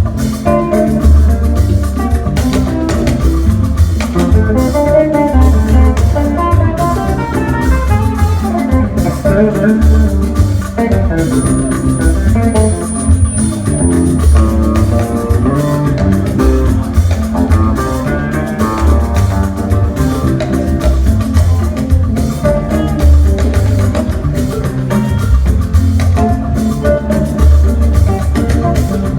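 Instrumental band music with guitars, bass and drum kit playing a steady groove, without singing.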